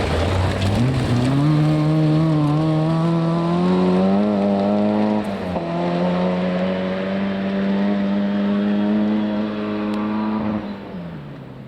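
Rally car engine at full throttle: the revs climb for about five seconds, dip briefly at a gear change, then hold high for about five seconds before dropping away and fading near the end.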